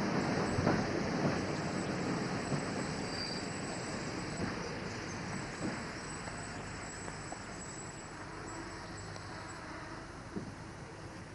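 Rolling rumble of a train's wheels on the rails, fading as the train slows almost to a stop, with a few scattered clanks from the running gear.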